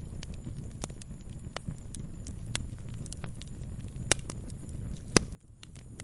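Wood fire burning in a fireplace, crackling with a low steady rumble and scattered sharp pops. Two louder pops come about four and five seconds in, and the sound dips away briefly just after the second.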